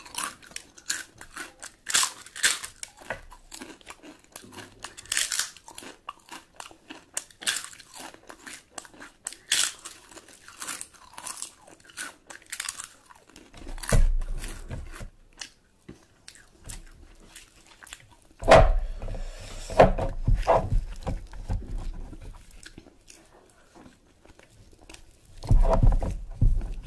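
A person eating close to the microphone: wet chewing with many sharp crunches and bites, and in the second half a few spells of dull, louder low thumps.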